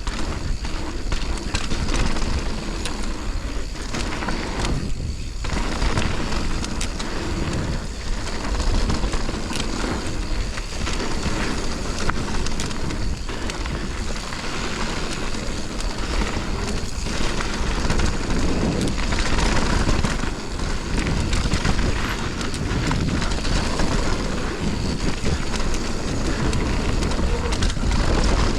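Mountain bike descending a dirt trail: wind rushing over the rider's camera microphone, with tyre noise and frequent short knocks and rattles from the bike over rough ground.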